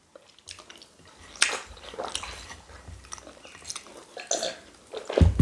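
Mouth sounds of eating beans and rice: chewing, wet smacks and small clicks, scattered and irregular. A louder dull thump near the end.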